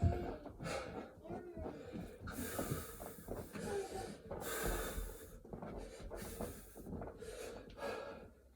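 A man's heavy, rasping breaths during a hard burpee workout, a breath about every second.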